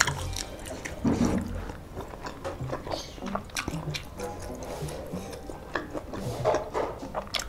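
Close-up chewing with wet mouth clicks and smacks as beef satay is eaten, over quiet background music. The strongest smack comes about a second in.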